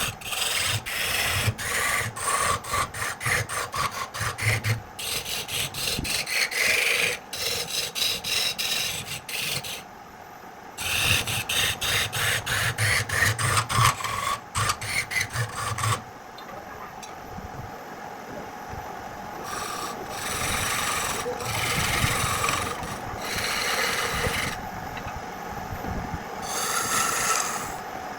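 A hand tool rasping over wood in repeated strokes: quick, short strokes for most of the first half with a brief pause, then slower, longer strokes a second or two apart.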